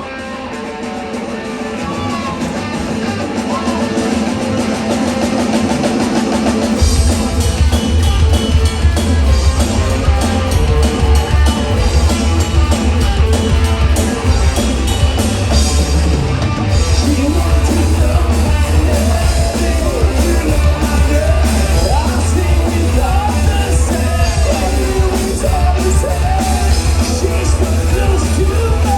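Rock band playing live: a quieter opening build-up, then heavy bass and drums kick in after about seven seconds, with a singer coming in partway through.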